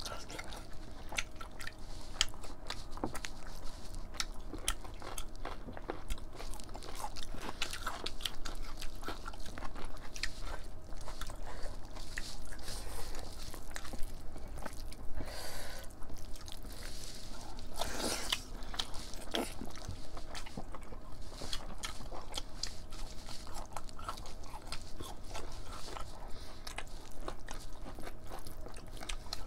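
Close-miked chewing and eating sounds of two people eating rice and mutton curry by hand: many small wet clicks and smacks of mouths and fingers in the food, with two brief breathy hisses about halfway through.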